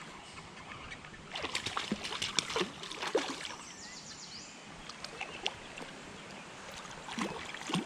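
A small creek running, with clusters of short sharp clicks and splashes about a second and a half in and again near the end.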